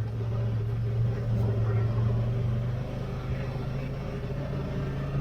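An engine running steadily, a low even drone that eases a little about halfway through.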